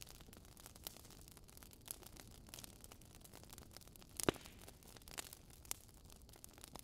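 Faint crackling of a wood fire in a fireplace: scattered soft pops and clicks, with one louder snap a little past four seconds in.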